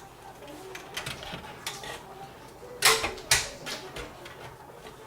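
Small clicks and knocks of a graphics card's metal bracket against a PC case's PCI expansion slots as the card is lined up. The two loudest clicks come about three seconds in, half a second apart.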